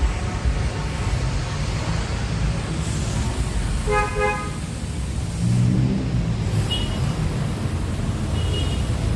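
Steady low rumble of a vehicle engine and traffic, with a car horn giving two short toots about four seconds in.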